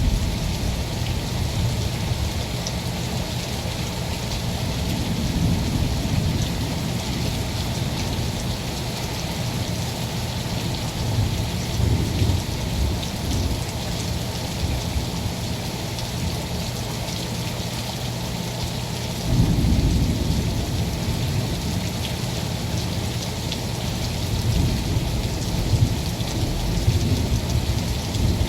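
Rain falling steadily in a thunderstorm, with thunder rumbling low several times; the strongest rumble starts suddenly about two-thirds of the way through.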